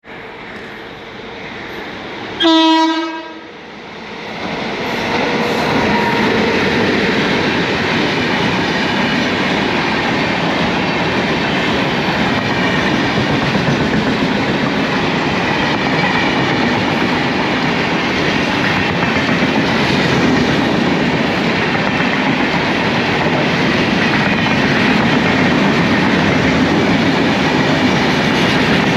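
The Garib Rath Express train sounds its horn once, a short loud blast about two and a half seconds in. The train then passes close by: a steady loud rush of coaches running over the rails, with clickety-clack.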